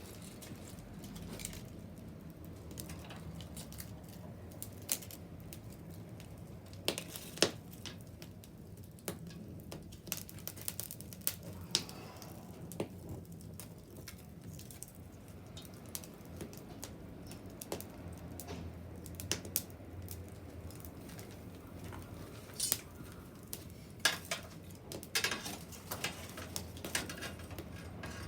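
Bonfire crackling: irregular wood snaps and pops, some sharp and loud, over a low, steady background.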